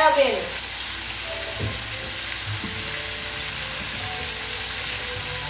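Food frying in hot oil in a pan on the stove: a steady sizzling hiss.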